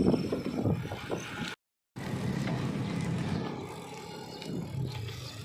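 Wind and road noise from riding a road bike, a steady rushing haze that drops out completely for a moment about a second and a half in.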